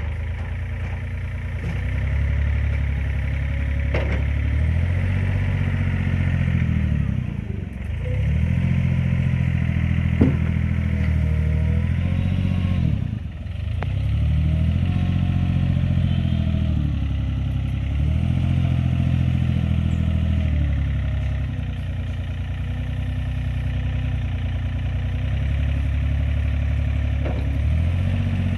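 Diesel engine of the machinery loading sand running steadily. Its pitch dips briefly a couple of times and picks up again as the load changes. A few sharp metallic knocks are heard along the way.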